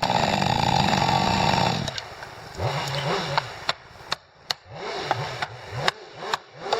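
Chainsaw running at full throttle in a cut for about two seconds, then falling back to lower revs that rise and fall in pitch, with sharp knocks scattered through.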